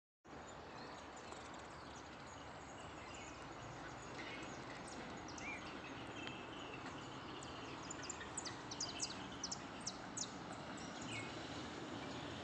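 Birds chirping over a steady, faint rushing background, with a quick run of sharp high chirps about eight to ten seconds in.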